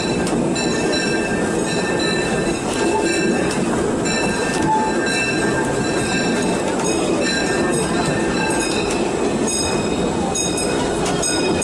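Disneyland Railroad steam train rolling along the track, heard from aboard a passenger car: a steady rumble of the cars with frequent short, high wheel squeaks and light clicks.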